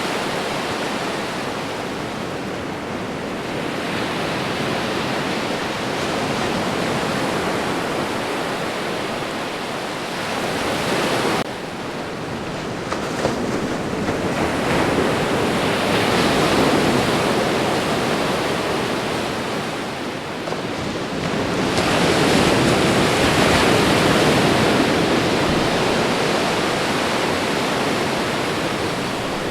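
Ocean surf: a continuous wash of waves breaking on the shore that swells with louder breakers about halfway through and again near three quarters through. The sound changes abruptly about eleven seconds in.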